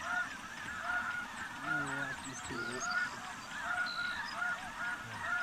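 A flock of snow geese calling: many short, high honks repeating and overlapping into a dense, continuous chorus.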